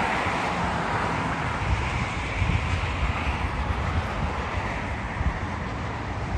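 Jet airliner's engines passing overhead, a steady rushing roar that slowly fades.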